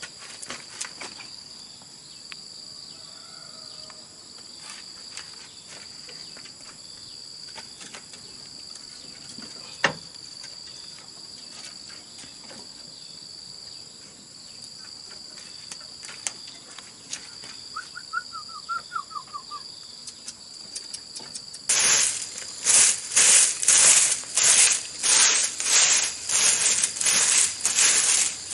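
Steady high-pitched drone of insects, with a short bird trill about two-thirds of the way through. Near the end, loud rhythmic rasping strokes set in at about two a second.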